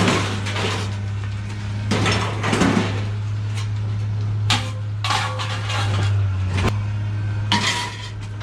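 Scrap metal clanking and clattering as pieces are thrown down, several separate impacts a second or two apart, over a steady low engine hum.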